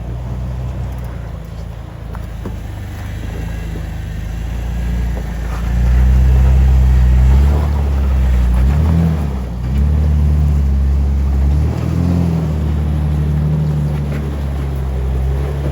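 Off-road 4x4's engine working at low speed over a rock obstacle, getting louder about six seconds in, with two short revs in the second half.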